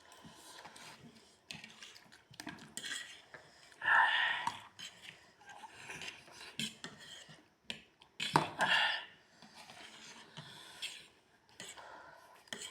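Cutlery clinking and scraping against plates as people eat noodles, in many short clicks, with two louder sounds about four seconds in and again about eight and a half seconds in.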